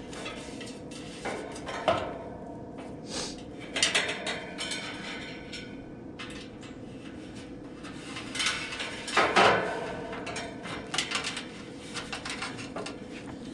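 Intermittent metallic clinks, clanks and rattles of hand work fitting a heat pump's condenser fan motor and its mounting hardware, with the loudest clatter about nine seconds in.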